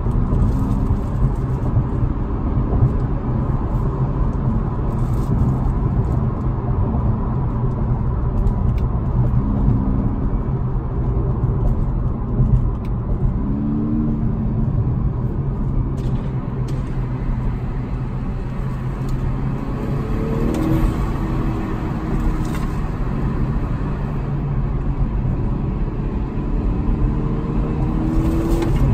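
In-cabin engine and road noise of a 2018–2019 Honda Accord 2.0T's turbocharged four-cylinder while driving, a steady low rumble with the engine note rising briefly a few times.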